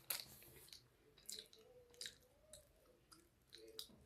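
Faint chewing of a chocolate-coated nougat bar with roasted peanuts and caramel: scattered soft crunches and mouth clicks.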